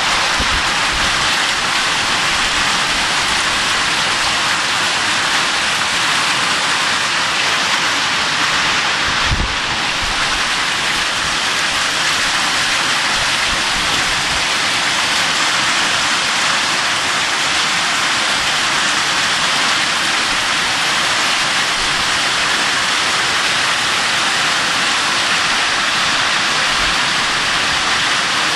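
Heavy rain pouring down in a storm, a steady hiss, with a brief low thump about nine seconds in.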